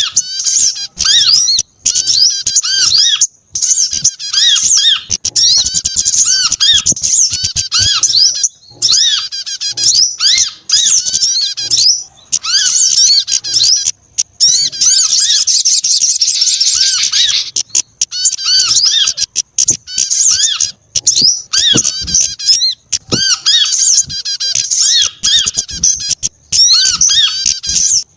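Bird-lure recording of mixed small-songbird calls, including sunbird and prinia calls: a dense, looping stream of rapid high chirps and short rising-and-falling notes with brief gaps, and a busier stretch of trilling about halfway through.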